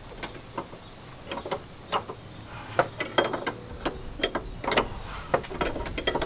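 Irregular metallic clicks and clinks of hand tools working on a car's suspension, as when turning a coilover's height-adjusting collar.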